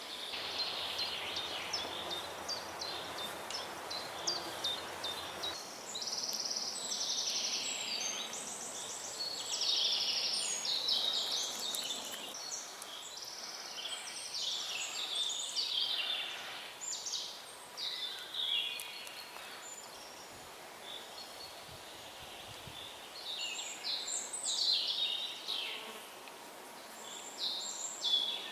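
Several birds singing and calling at once in a forest, short notes and quick trills overlapping, over a faint steady background hiss.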